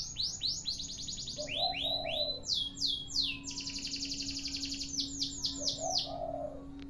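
Domestic canary singing a long unbroken song: fast trills of repeated high down-sweeping notes, switching to a new phrase every second or so. A lower, softer note comes in three times, and a faint steady hum starts about a second and a half in.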